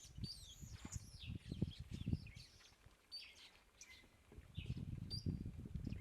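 Several birds chirping and calling with short whistled notes, some sliding in pitch, over scattered low thuds.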